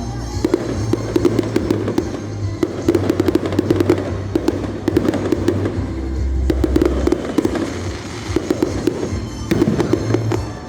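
Fireworks going off in quick succession, many sharp bangs and crackles through the whole stretch, with music playing underneath.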